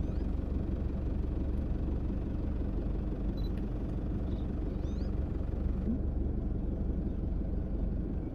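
Steady low vehicle rumble, with a few faint, short, high rising bird calls about three and five seconds in.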